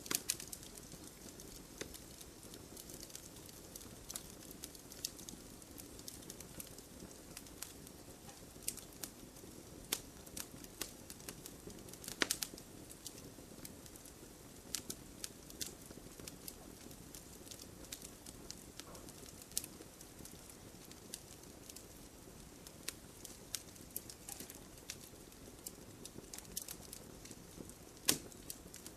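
Campfire crackling: irregular sharp pops and snaps over a low, steady hiss, with a couple of louder pops about twelve seconds in and near the end.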